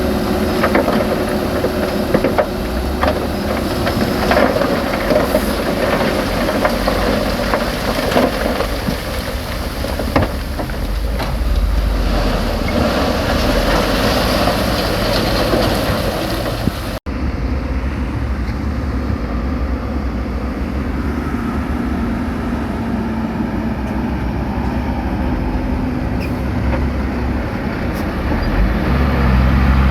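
Heavy diesel earthmoving machinery running, with scattered knocks and clatter through the first half. After a cut about 17 s in, a steadier engine drone follows, rising in level near the end.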